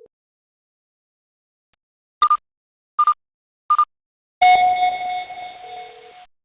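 Electronic alert tones: three short beeps about three quarters of a second apart, then a louder ringing chime that fades away over about two seconds.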